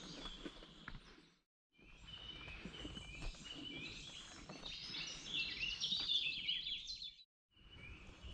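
Songbirds singing and chirping in woodland, busiest a little past the middle, over a low rumble. The sound cuts out completely twice for a fraction of a second, about a second and a half in and near the end.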